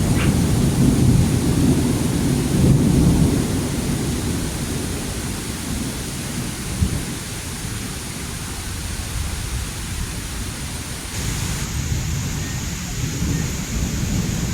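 Thunder rumbling through heavy rain, loudest in the first few seconds and then fading, over a steady hiss of rainfall. A single brief thump about seven seconds in.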